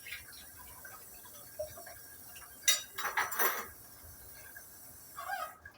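Dishes and cutlery clinking: one sharp clink a little under three seconds in, then a short clatter, and a smaller one near the end.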